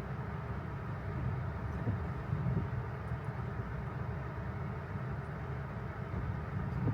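Steady road noise inside an electric Tesla's cabin as it drives: tyres rolling on wet pavement, with no engine sound.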